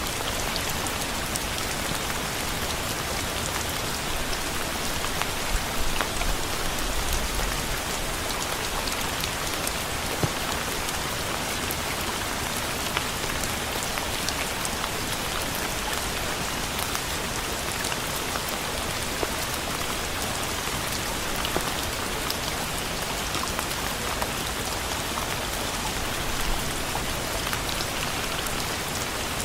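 Steady rain falling on a surface, an even hiss dotted with the ticks of individual drops.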